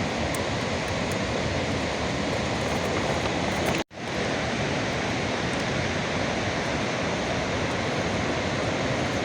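Heavy rain pouring steadily in a storm, a dense, even hiss that cuts out for an instant about four seconds in and then resumes.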